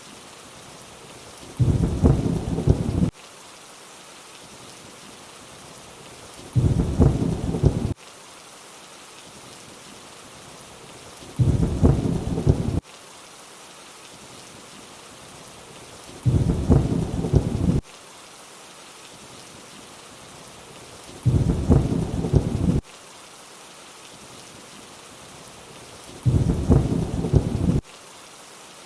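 Steady rainfall hiss, with a short low rumble of thunder about every five seconds, six times in all. Each rumble lasts about a second and a half and starts and stops abruptly at even spacing, like a repeating loop.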